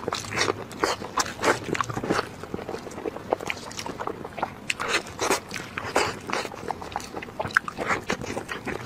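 Biting and chewing braised pork knuckle: irregular wet mouth smacks and sticky clicks, several a second.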